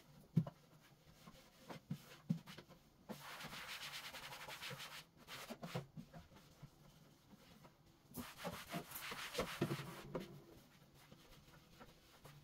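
Household cleaning: a surface being rubbed or wiped, in two stretches of about two seconds each, with small knocks and clicks of things being handled between them.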